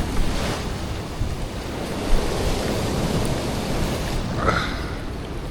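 Ocean swell surging and washing over a rock ledge, a continuous rushing wash, with wind buffeting the microphone.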